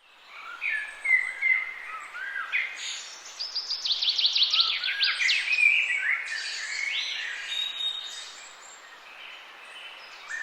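Several birds singing and calling together over a faint hiss of forest ambience: short whistles and chirps, with a rapid trill about three seconds in, fading down toward the end.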